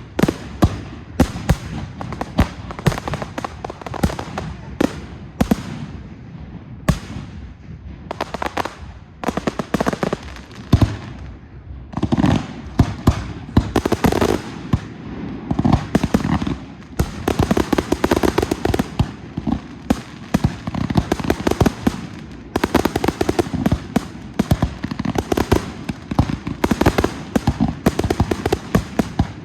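Fireworks display: a dense, continual barrage of bangs and crackling from shells and cakes, growing thicker, with rapid clusters of reports about halfway through and again towards the end.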